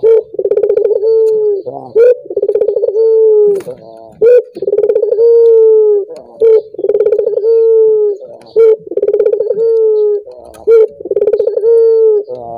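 Male Barbary dove (burung puter) cooing loudly and repeatedly: each phrase is a short note followed by a long, low coo of about a second that drops slightly at its end, the pattern repeating about every two seconds.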